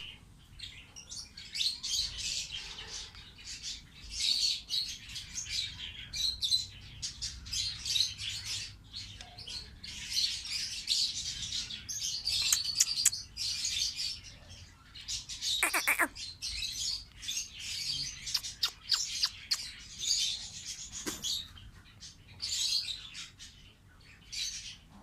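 Pet lovebirds chattering in rapid high-pitched chirps that come in bursts about a second long, one after another. About two-thirds of the way through there is a single whistle that slides down in pitch.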